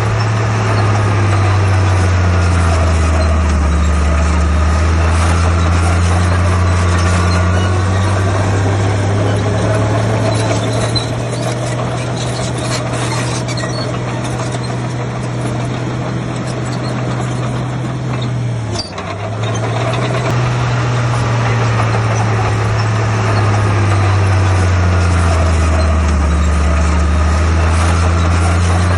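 Heavy diesel engine of earthmoving machinery running under varying load. Its pitch sinks and climbs slowly over several seconds, and the sound drops out briefly about two-thirds of the way through.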